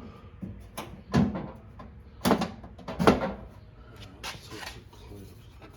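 Five separate knocks and clunks a second or so apart, the loudest about three seconds in: hard parts or tools being handled and set down during work on a lawn tractor.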